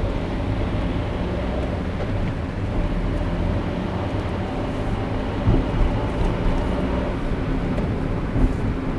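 Car driving on a road: a steady low rumble of tyre and engine noise, with a few short knocks from about halfway through and another near the end.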